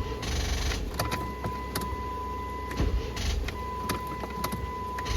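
Chrysler 300 with a drained battery failing to start in deep cold. There are scattered clicks and a steady high electronic beep that keeps cutting on and off, but no engine catching.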